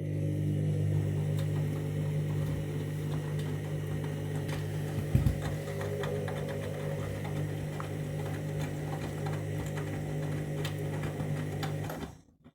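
Candy Grand'O Vita washing machine running its main wash: a steady motor hum as the drum turns, with faint clicks and a brief thump about five seconds in. It cuts off suddenly near the end.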